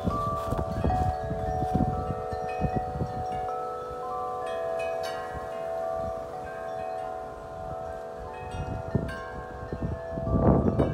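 Wind chimes ringing in gusty wind, their tubes struck irregularly and overlapping, many long-held tones sounding together, with wind rumbling on the microphone and a strong gust near the end.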